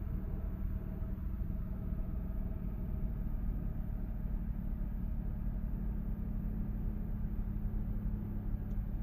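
Mazda FD3S RX-7's 13B twin-turbo rotary engine running at a steady highway cruise, with tyre and road noise; the freshly rebuilt engine is being run in gently.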